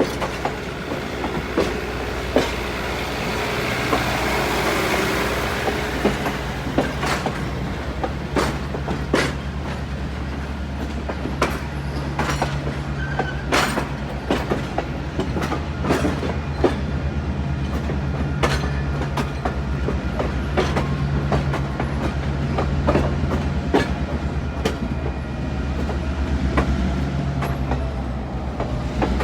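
Diesel-hauled passenger train rolling slowly past, the locomotive's engine rumbling steadily under a long run of sharp clicks from the wheels crossing rail joints.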